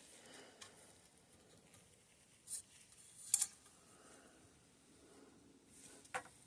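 A few faint clicks and light taps from small suspension fork parts being handled on a workbench, with one about two and a half seconds in, another a second later, and one near the end.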